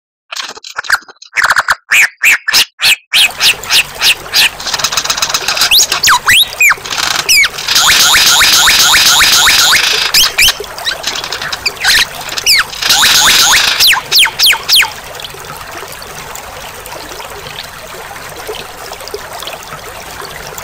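White-rumped shama (murai batu) song: fast clicking chatter, rapid repeated trills and sharp whistled notes. The singing falls away about three-quarters of the way through, leaving only faint hiss.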